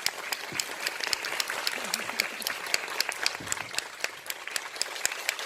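Audience applauding, many hands clapping fast and unevenly.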